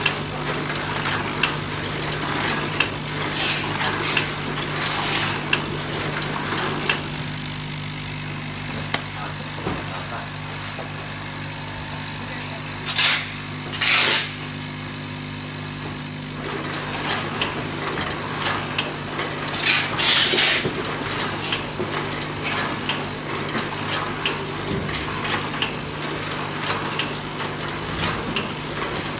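Chewing gum overwrap packaging machine running: a steady hum with constant light clicking and clattering. Three short hissing bursts come through, two close together about halfway through and one a few seconds later.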